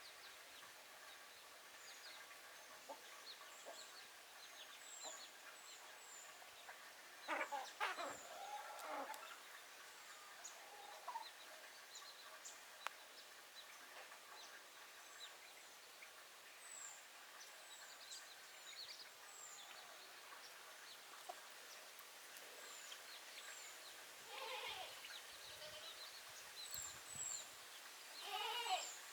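Backyard chickens clucking over a quiet background. There is a louder burst of calls about a quarter of the way in, more calls near the end, and faint, short, high chirps scattered throughout.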